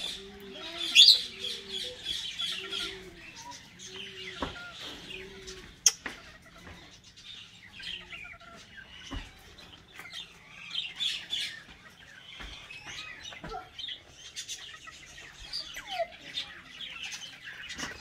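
Many caged birds chirping and calling in an aviary, a scatter of short high chirps, with one louder call about a second in and a sharp click about six seconds in.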